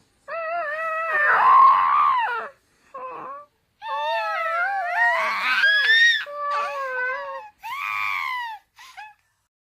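Baby babbling: a string of about five drawn-out, high squealing coos that slide up and down in pitch, the loudest about one to two seconds in, stopping shortly before the end.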